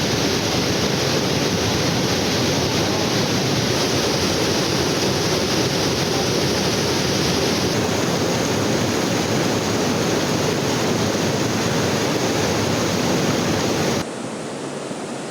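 Waterfall rushing, a steady loud noise of falling water. It drops off abruptly about fourteen seconds in.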